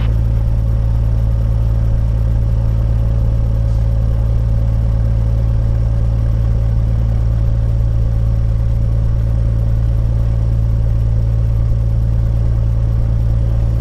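Light aircraft's piston engine idling steadily on the ground, an even low drone with no change in speed.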